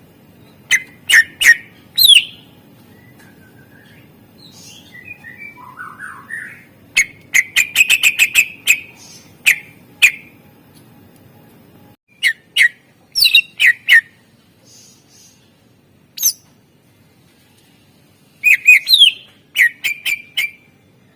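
A cucak ijo (green leafbird) singing loud, sharp whistled notes and quick up-and-down glides in bursts, with pauses between them. A fast run of notes comes about seven seconds in, and softer, lower warbling about five seconds in. The song is laced with imitations of other birds' songs.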